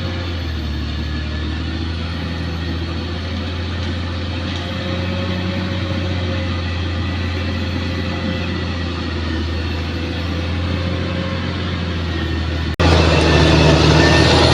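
Bulldozer's diesel engine running steadily. About 13 seconds in, the sound cuts abruptly to a louder, harsher engine sound.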